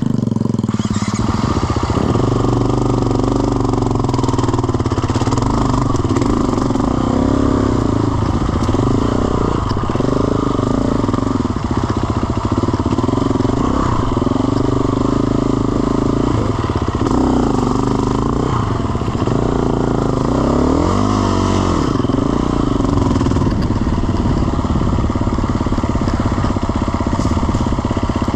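Motorcycle engines revving hard and easing off over and over, the pitch rising and falling every second or two, with one long rise and fall about 20 seconds in.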